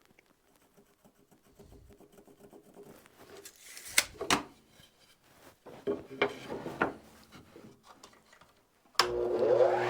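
Radial arm saw switched on about nine seconds in, its motor spinning up with a rising whine. Before it, a few light knocks and rubs of wood being handled.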